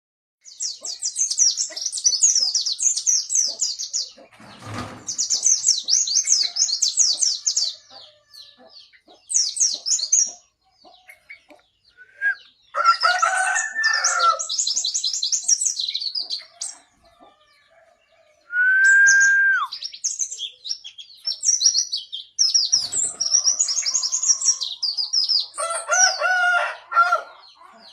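Yellow-breasted white-eye (pleci) singing long rolling runs of rapid, high twittering notes, in several bursts with short pauses between. Chickens call in the background, around the middle and again near the end, and a single thump sounds about four and a half seconds in.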